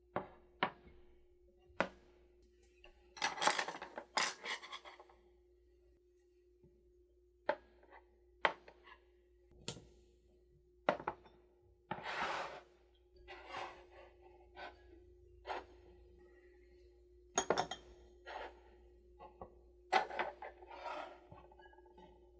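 Dishes and utensils knocking and clinking in scattered single taps and short scrapes, over a steady faint hum.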